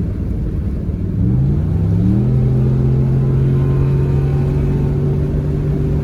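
Cammed 5.3-litre LS4 V8 of a 2008 Chevrolet Impala SS through a full 3-inch straight-pipe exhaust. The engine note climbs in pitch over about a second as it accelerates, then holds a steady, loud tone.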